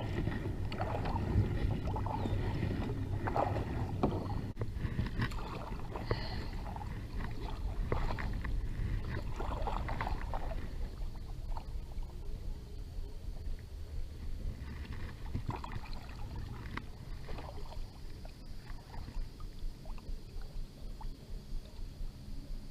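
Kayak paddle strokes dipping and splashing in lake water over a steady low rumble, the strokes falling into an even rhythm near the end.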